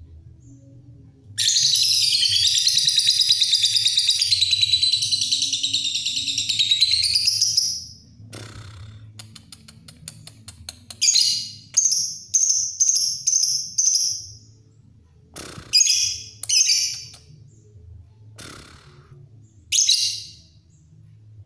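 Lovebird singing its 'ngekek', a long unbroken high-pitched trilling chatter lasting about six seconds, followed a few seconds later by a run of short shrill chirps.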